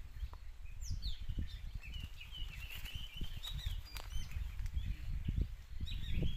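Small birds chirping: rapid short calls, busiest in the first half, over a steady low rumble.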